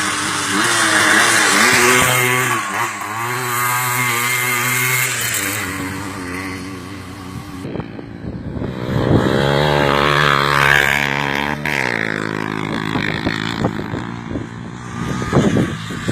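Motocross motorcycle engines revving, the pitch climbing and dropping several times as the throttle is worked.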